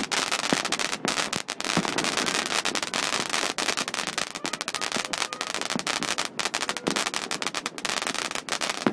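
Many firecrackers and fireworks going off at once, a dense, unbroken crackle of sharp bangs that thins out near the end.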